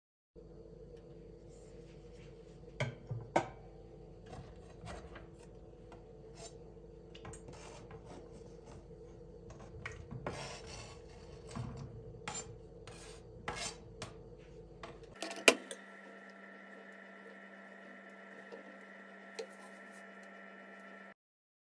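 Irregular clicks, knocks and scraping of things being handled, with a few sharper knocks, over a steady hum.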